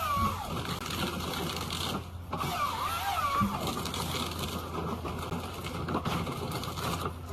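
A machine running steadily, with a wavering whine that rises and falls about half a second in and again around three seconds in.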